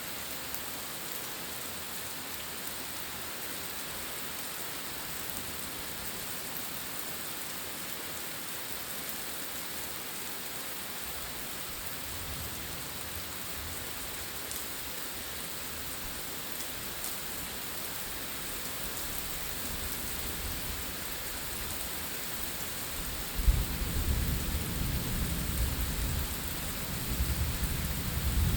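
Steady rain falling through a thunderstorm, with thunder rumbling low from about halfway. Near the end a sudden loud crack of thunder sets off a heavy rumble that rolls on.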